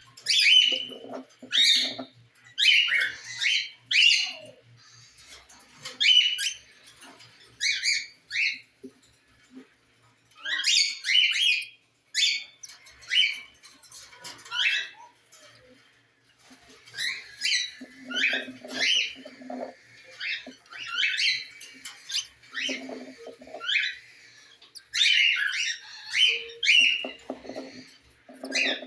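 Cockatiels calling: short, sharp chirps and squawks in repeated clusters with brief pauses between, some sweeping in pitch. Lower-pitched bursts come in now and then.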